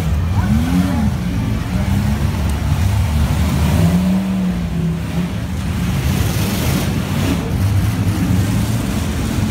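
Demolition derby cars' engines running and revving in the arena, their pitch rising and falling, with a brief rev about half a second in.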